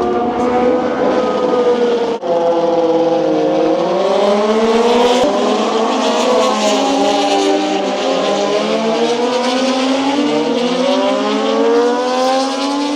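Several racing motorcycle engines at high revs, their pitch rising and falling as they accelerate, shift and pass, with a brief break about two seconds in.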